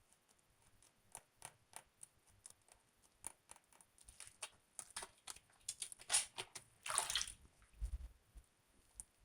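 Soap being handled: a run of crisp crackles and clicks that grows denser towards the middle, with a longer crunch about seven seconds in.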